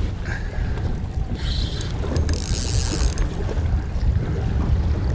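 Wind buffeting the microphone in a small open boat on choppy water, an uneven low rumble, with short bursts of higher hiss, the brightest about two and a half seconds in.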